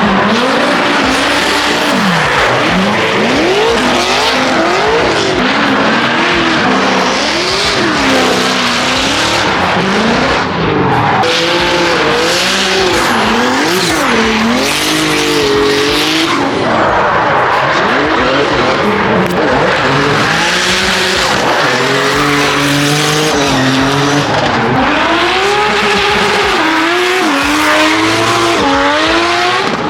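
Competition drift cars sliding past at close range, one after another: engines revving up and down at high rpm over continuous tyre squeal, loud throughout.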